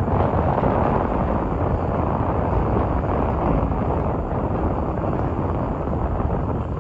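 Excavator's diesel engine running steadily under load, a loud, continuous noise.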